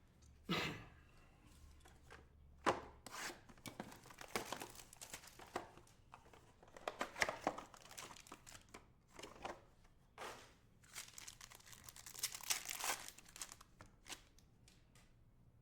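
Trading-card pack wrappers being torn open and crinkled by hand, in irregular bursts of tearing and rustling with a few sharper snaps.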